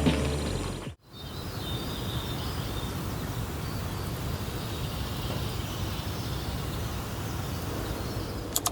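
Steady outdoor ambient hiss with faint bird chirps, after music cuts off about a second in.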